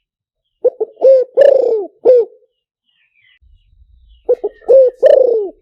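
Spotted dove cooing: two phrases about three and a half seconds apart, each a few quick low coos and then a longer note that falls in pitch. It is a recorded call used as a decoy to lure wild spotted doves into a trap.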